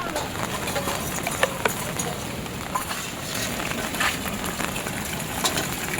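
Steady rain, with irregular sharp drips and taps of drops landing on hard surfaces.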